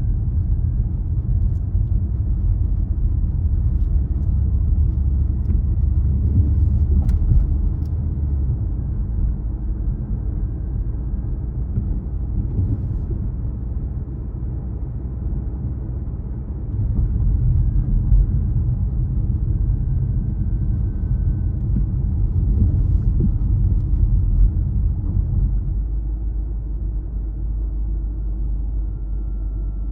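A car driving along a road, heard as a steady low rumble of engine and tyres that eases off briefly about halfway through and then swells again, with a few faint clicks.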